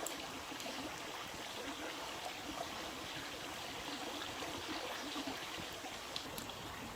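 A steady wash of water sound, even and unbroken, with a few faint ticks.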